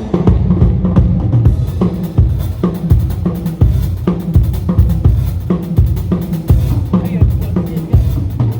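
Drum kit played in a steady groove: bass drum strokes about twice a second with snare hits between them.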